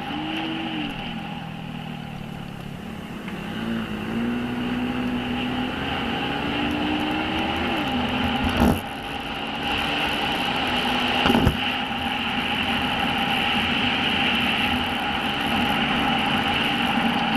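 Motorcycle engine running at speed, its pitch rising and falling with the throttle, under a steady hiss, with two sharp knocks about nine and eleven seconds in.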